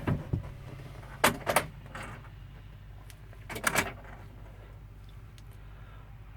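Ignition key of a Case IH Maxxum 5150 Plus tractor being turned round a few times with the engine not running, to preheat the cold diesel: a handful of sharp clicks and knocks, a close pair a little over a second in and another cluster near the middle.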